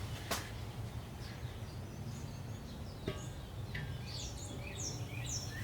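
A bird singing a run of quick, falling chirps in the second half, over a steady low hum. A sharp click comes just after the start and a soft knock about three seconds in.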